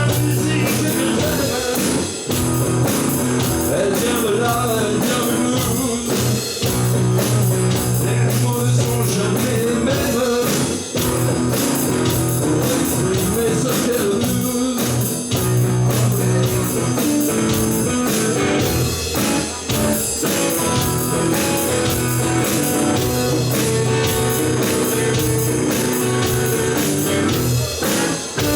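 Live band playing a blues-rock instrumental passage, electric guitar to the fore over a steady beat.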